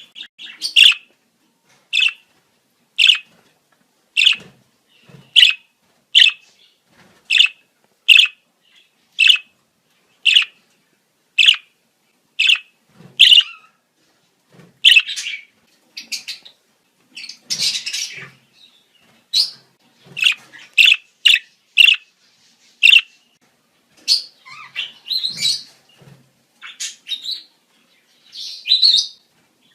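Budgerigars giving breeding-season calls: short, sharp chirps about once a second, with two stretches of busier chattering warble, one around the middle and one near the end.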